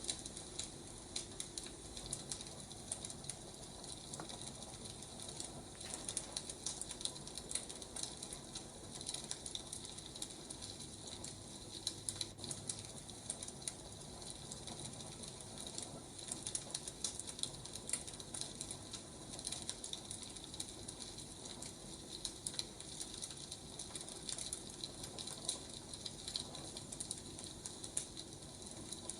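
Wood fire burning: a steady hiss with frequent, irregular small crackles and pops from the burning logs.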